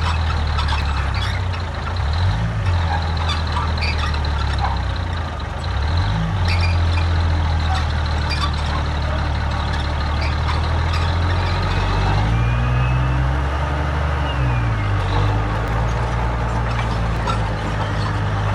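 Heavy diesel construction machinery working: a deep engine drone that drops and rises in pitch several times, with scattered clanks and rattles.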